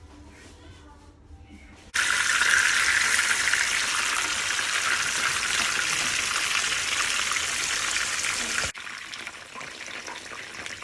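Food sizzling in hot oil in a pan: the sizzle starts suddenly about two seconds in, holds loud and steady for several seconds, then drops abruptly to a quieter sizzle near the end.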